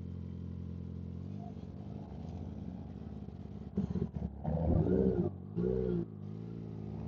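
Kawasaki ZX-10R's inline-four engine running steadily at low road speed. About four seconds in it gets louder, with two short throttle blips where the pitch rises and falls.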